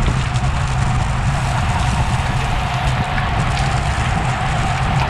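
Steady wind rumble on a handlebar- or helmet-mounted action camera's microphone while riding a road bike.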